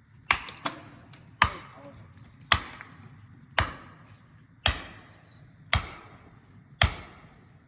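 Heavy, evenly spaced blows of a hand tool on wood, about one a second, each a sharp crack with a short echo: seven strong strikes, the first followed closely by a lighter one.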